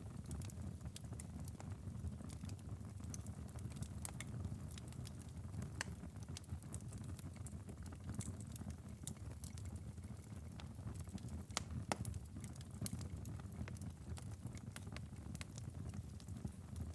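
Wood fire crackling in a fireplace: frequent small pops and snaps over a low steady rumble, with one louder pop about twelve seconds in.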